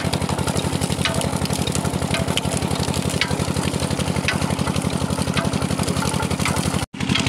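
Engine driving a sugarcane crusher, running steadily with a rapid even thudding beat. The sound cuts out for a split second near the end, then returns unchanged.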